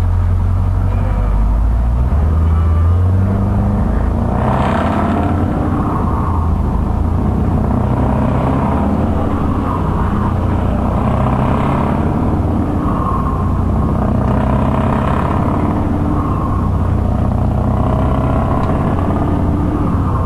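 Scania truck engine running loud and deep with a low rumble, its pitch shifting up and down a few times.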